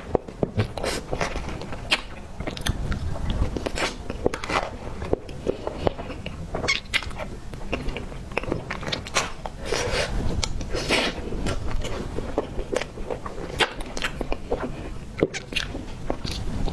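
Chewing and biting of tiger skin roll cake, with irregular mouth clicks and smacks.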